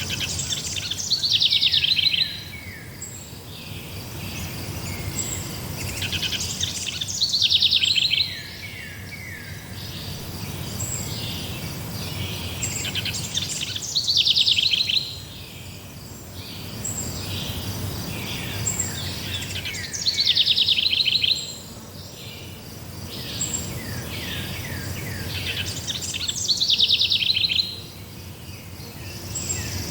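A songbird singing the same loud phrase of quick, falling notes about every six and a half seconds, five times, over a steady high chirring of insects.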